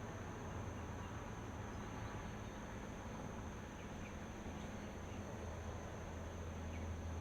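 Steady outdoor ambience: a continuous high insect chorus, such as crickets trilling, over a low steady hum and faint hiss.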